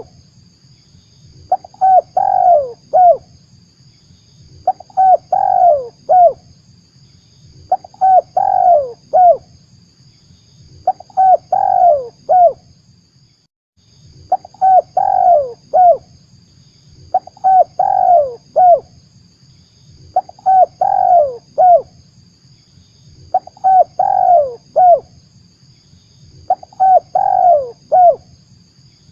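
Spotted dove (tekukur) cooing, played as a lure call: a phrase of three or four falling coo notes repeated steadily about every three seconds.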